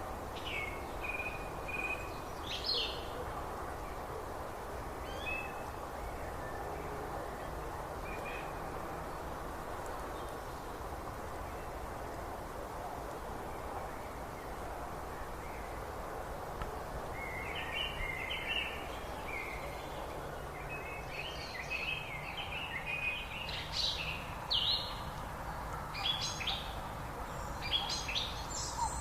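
Songbirds chirping and trilling over a steady background hiss. The calls are scattered at first and come thick and fast in the last ten seconds or so.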